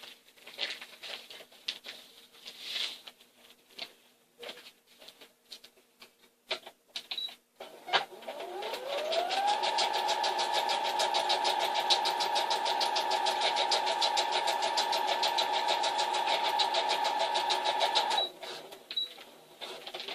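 Sewing machine stitching through dog-food bag material. After some scattered clicks and handling, the motor speeds up about eight seconds in. It runs steadily at a fast, even stitch for about nine seconds, then stops.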